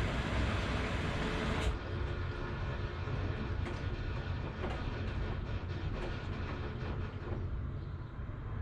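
Washing machine running with a steady low rumble; a hiss that is louder at first stops abruptly about one and a half seconds in, and a few faint knocks follow.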